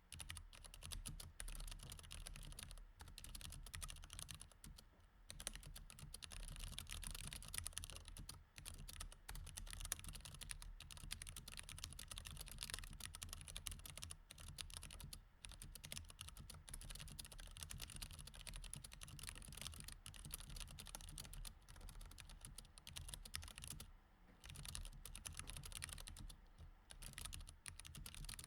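Fast, steady typing on a mechanical keyboard with Cherry MX Red switches, the keystrokes running together with a few short pauses. A faint low hum sits underneath.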